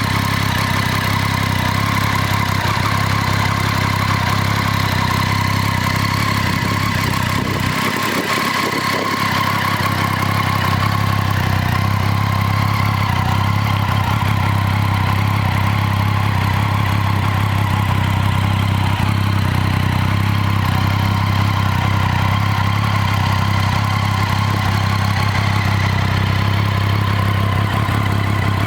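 Triumph Street Triple 675's inline three-cylinder engine idling steadily.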